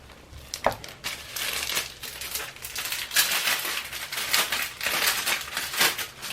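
Plastic packaging crinkling and rustling in irregular bursts as it is handled, with a sharp click about a second in.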